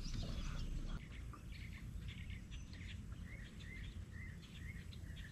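Small birds chirping, a run of short repeated chirps over a faint low rumble.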